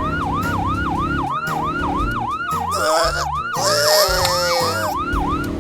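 Emergency-vehicle siren sound effect in a fast yelp, its pitch swooping down and back up about three times a second, over background music. A loud hiss joins in for a second or two around the middle.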